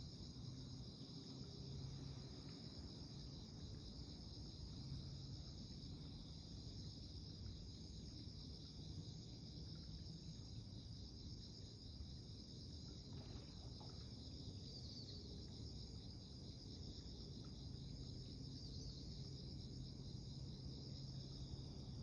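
Steady high-pitched trilling of insects in chorus, with a faint low hum underneath.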